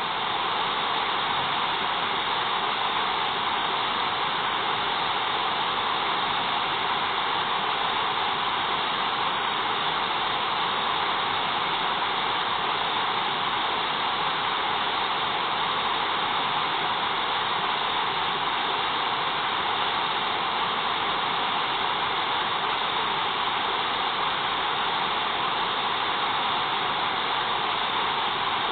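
Steady brown noise from an EVP ghost-box app, recorded through a phone's microphone: an even hiss that runs without breaks or words.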